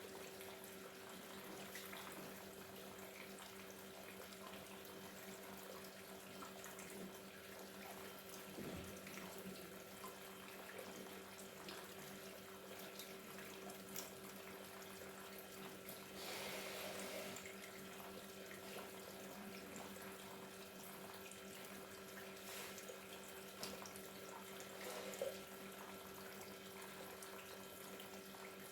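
Faint, steady trickling and splashing of water from a small paludarium waterfall, with a low steady hum underneath and a slightly louder splash about two-thirds of the way in.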